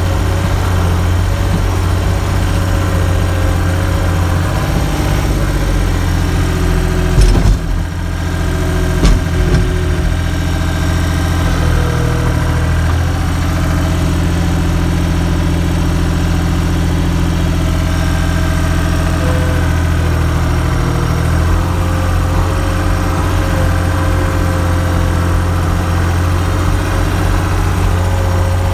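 Skid steer loader's engine running steadily, with the engine note shifting slightly a few times. Two sharp clunks stand out about seven and nine seconds in.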